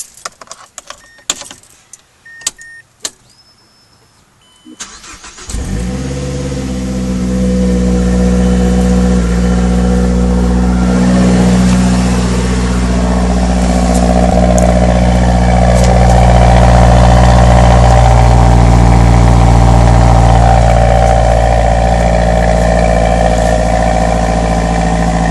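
A 2013 Mazdaspeed3's turbocharged 2.3-litre four-cylinder, fitted with a resonator-delete exhaust and an aftermarket intake, is started cold. A few clicks and a jingle of keys come first, then a short crank about five seconds in. The engine catches and settles into a steady cold-start idle.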